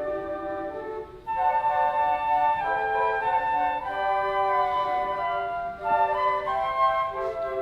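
Flute music: held notes in several parts sounding together, with a short break about a second in.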